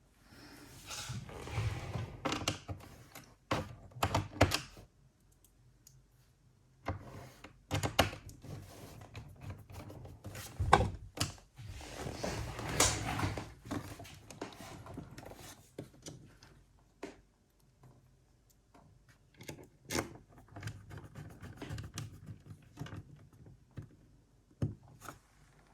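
Irregular clicks, taps and thuds of a gaming laptop's plastic bottom case and tools being handled on a desk, as the case is fitted and fastened back on.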